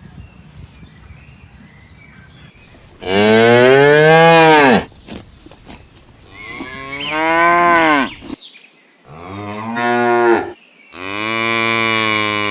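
Cattle mooing: four long moos a second or so apart, each rising and then falling in pitch.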